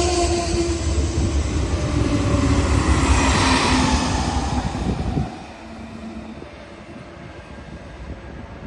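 Passenger train passing on the Hudson Line: its rumble and rail noise are heavy, with a few tones slowly falling in pitch. The sound drops off suddenly a little over five seconds in as the train clears.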